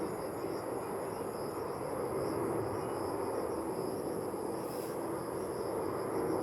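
Steady distant airliner jet-engine noise: an even rumble with a steady hum, from a jet on approach to land.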